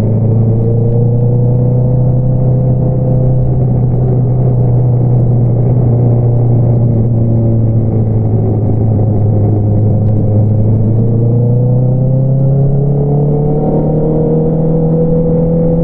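2022 Honda CBR650R's inline-four engine running through an Akrapovič single-outlet exhaust while riding. It holds a steady low note for most of the time, then the revs climb gradually about eleven seconds in and hold at the higher note.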